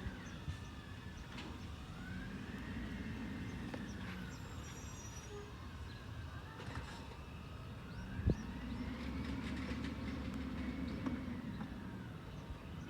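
Diesel engine of a Peterbilt 320 garbage truck running, its pitch rising and falling slowly twice as the engine revs up and settles back. A single sharp knock comes about two-thirds of the way through.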